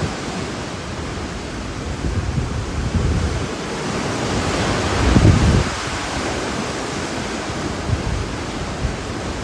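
Hurricane wind gusting: a loud, broad rushing noise that swells to its loudest about five seconds in, with low rumbles of wind buffeting the microphone.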